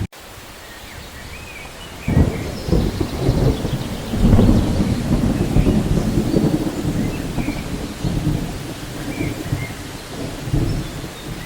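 Thunder rolling over steady rain in a rainforest soundscape: the rumble comes in suddenly about two seconds in, is loudest a couple of seconds later and keeps rolling. Faint bird chirps sound here and there.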